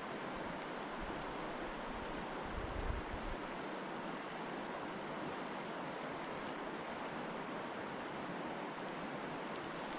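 Steady rush of flowing river water, with low gusty rumbles from wind on the microphone in the first few seconds.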